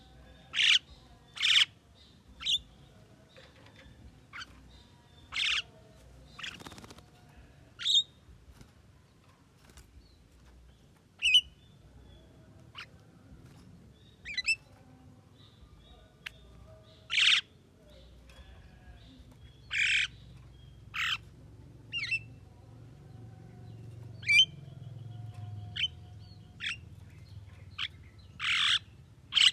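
Javan myna (jalak kebo) calling: a string of short, harsh squawks mixed with thin whistled notes, spaced irregularly a second or so apart.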